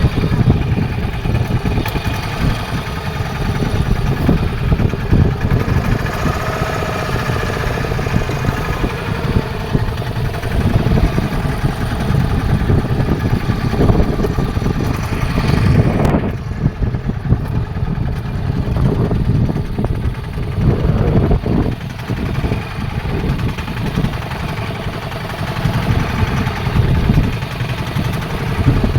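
A fishing boat's engine running steadily, a dense low drone.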